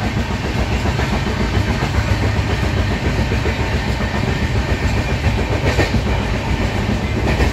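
Passenger train running, heard from inside the coach: a steady, loud rumble of the wheels on the rails.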